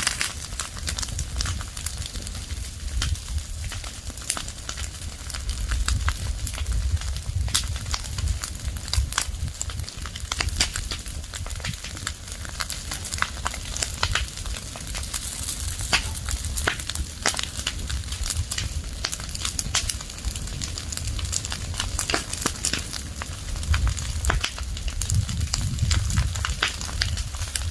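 Fire of burning leaves and branches crackling, with dense, irregular sharp pops and snaps over a low rumble.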